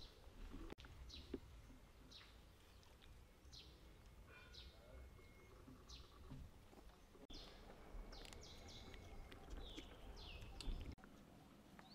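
Faint bird chirps: short high notes that fall in pitch, repeated about once a second and coming thicker near the end, over a low background rumble.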